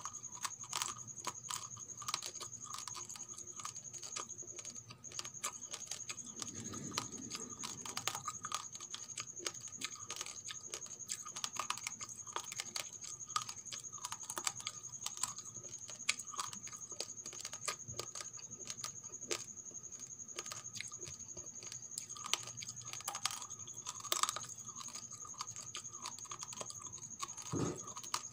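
Raw rice grains being chewed and crunched close to the microphone: a dense, irregular run of small crackling clicks.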